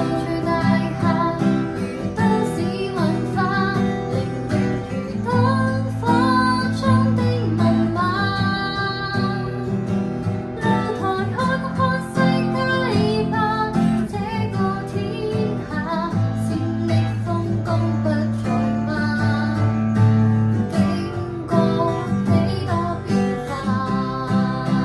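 A woman singing a Cantonese ballad to her own acoustic guitar accompaniment, the guitar strummed and plucked under a wavering sung melody.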